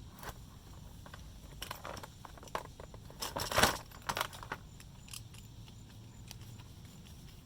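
Scattered small clicks, knocks and rattles of hands and tools handling fuel pump parts, busiest in a short flurry around the middle, over a steady low hum.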